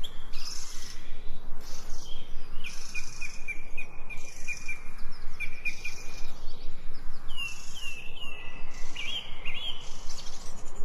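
Songbirds chirping and calling: a quick run of short, evenly spaced notes through the middle, then a few downward-sliding whistles and chirps near the end, over a steady background hiss.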